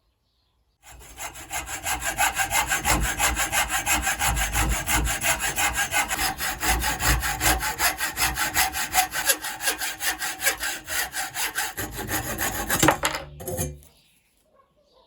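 Hand saw cutting through wood with quick, even back-and-forth strokes, about four to five a second, stopping about thirteen seconds in.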